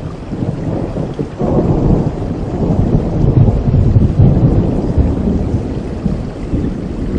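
Rolling thunder rumbling over steady rain, swelling about a second and a half in, loudest around the middle, then easing off.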